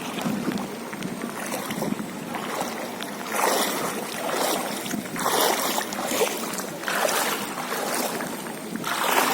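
Rain falling steadily, a continuous hiss that swells louder every second or two.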